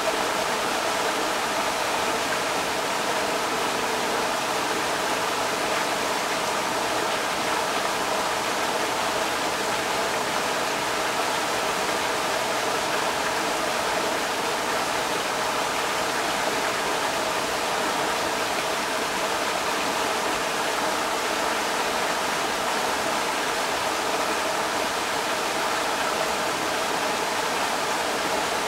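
Creek water rushing steadily over rocks, an even hiss with little low rumble.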